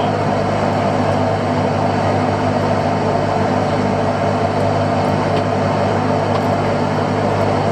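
Fishing boat's engine running steadily, an even low drone with a noisy wash over it.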